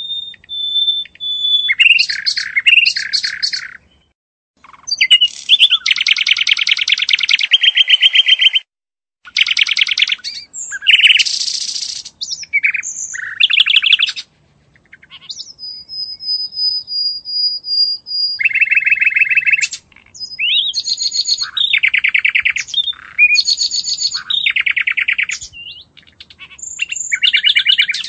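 A string of small-bird calls: rapid chirping trills and chirps, with a thin steady whistle at the start and a longer steady high whistle about halfway through. Separate calls follow one another with short silent breaks between them.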